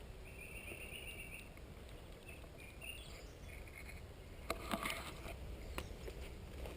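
Low handling rumble with a few faint high chirps in the first second or so, then a cluster of sharp clicks and knocks a little past the middle, likely footsteps and debris underfoot.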